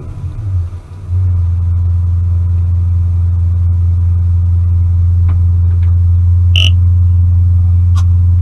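A loud, steady, low engine drone at constant speed, which sets in about a second in, with a few faint short clicks over it.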